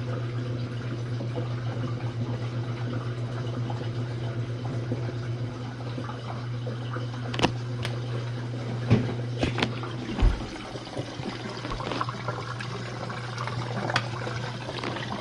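Jenn-Air dishwasher filling with water at the start of its cycle: steady rushing water over a low hum, with several sharp clicks and knocks in the second half.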